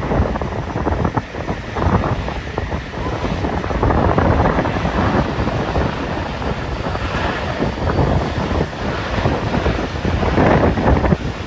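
Strong wind buffeting the microphone: a loud rumbling rush that swells and drops in gusts.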